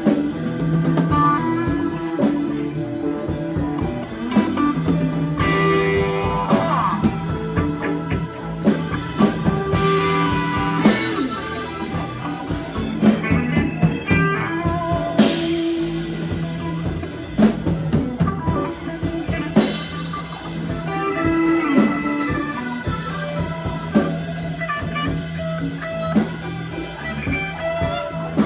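Live blues-rock band playing an instrumental passage: electric guitar with bent notes over bass and drum kit.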